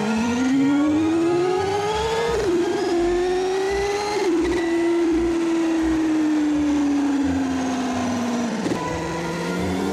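Motorbike engine revving. Its pitch climbs for the first two seconds or so, drops as if through a gear change, climbs again, then slowly falls as it eases off, with a brief dip near the end.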